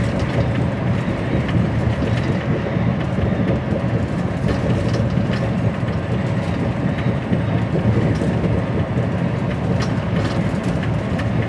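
Steady rumble of an HGV lorry on the move, heard from inside its cab: a low engine drone and road noise at an even level.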